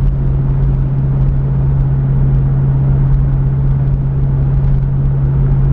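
Pontiac Firebird's engine and exhaust running steadily at cruising speed, heard from inside the car: one constant low hum over a rumble of road noise.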